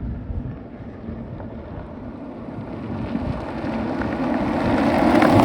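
Sports car engine and exhaust running with a steady low rumble, growing steadily louder over the last couple of seconds as it comes closer.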